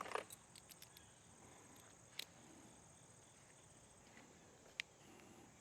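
Near silence, broken by a few faint clicks and taps of small bolts and parts being handled: a cluster just after the start, one about two seconds in and one near the end.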